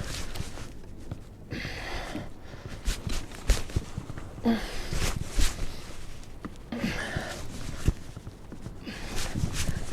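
Heavy breathing of an angler straining against a fish on the line, in four breathy bursts, over low rumble and scattered knocks of handling.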